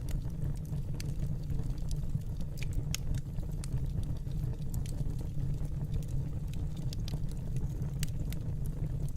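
Wood fire in a fireplace burning with a steady low rumble, with irregular sharp crackles and pops from the burning wood.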